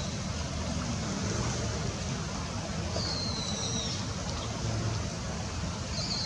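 Steady rush of flowing river water with a low hum of distant traffic. Twice, about three seconds in and again near the end, a high, thin, slightly falling whistle lasts about a second.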